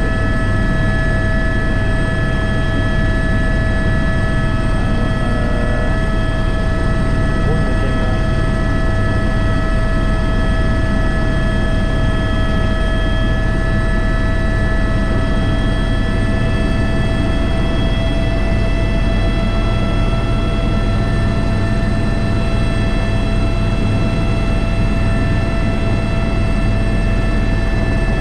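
Airbus H125 single-engine helicopter in flight, heard from the cockpit: a steady heavy rotor and engine drone with several constant high whines from the turbine and gearbox.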